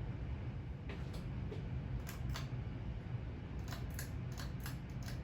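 Hunter Coastal Breeze Plus 44-inch ceiling fan running on high: a steady low rush of moving air, with a scattering of light clicks, several of them close together near the end.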